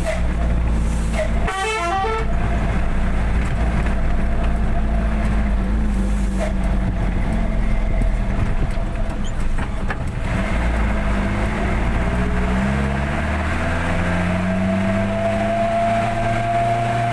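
Truck engine running on the move, with a steady whine over it. In the second half the engine note rises as the truck speeds up.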